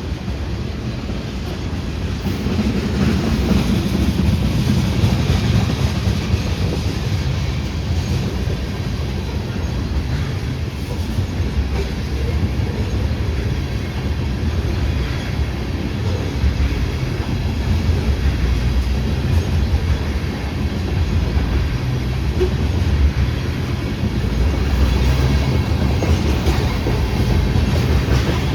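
A train rolling past on the tracks: a steady low rumble with the wheels clicking over the rails.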